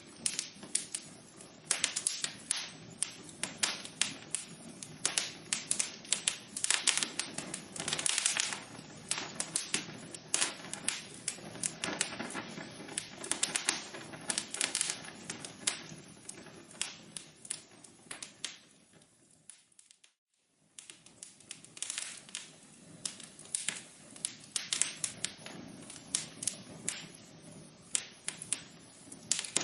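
Wood fire in a fireplace crackling, with many irregular sharp snaps and pops over a low hiss. About twenty seconds in it fades briefly to silence, then the crackling resumes.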